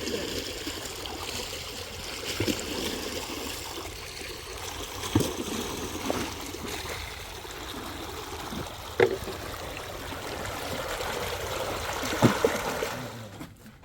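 Spring water running and trickling steadily, with about five brief knocks scattered through it. The water sound drops away near the end.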